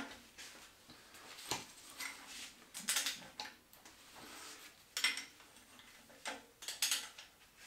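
Scattered metal clinks and knocks of hand tools and engine parts being handled during a diesel engine teardown, a handful of separate sharp taps spread over several seconds.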